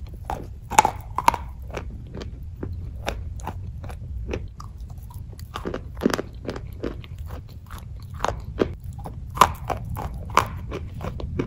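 Crunching and chewing of a crumbly white chalky lump: irregular sharp crunches throughout, with louder bites about a second in, around six seconds, and twice near the end.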